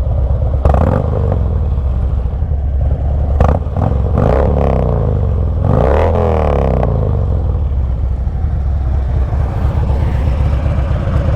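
Harley-Davidson Street Glide's Twin Cam V-twin idling through 4.5-inch Sharkroad slip-on mufflers. It is revved twice, about four and six seconds in, the pitch climbing and falling back to idle each time.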